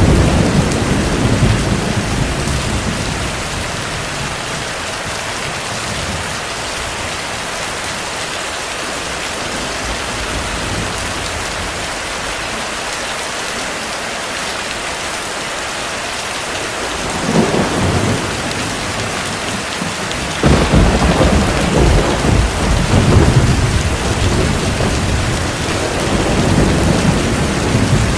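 Heavy rain falling in a steady hiss, with thunder rumbling over it: a low roll at the start, then a stretch of rain alone, then a short rumble. About three-quarters of the way in, a sudden thunderclap rolls on for several seconds, and another rumble comes near the end.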